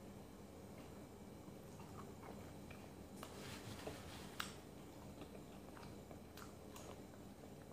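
Faint sounds of a person eating chicken and vegetables: soft chewing with scattered small mouth clicks and smacks, the sharpest click about four and a half seconds in, over a low steady hum.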